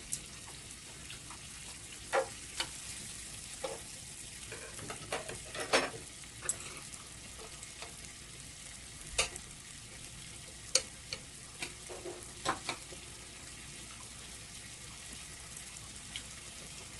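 Grilled beef and shrimp sizzling steadily in a hot pan, with a scattering of sharp clicks and taps.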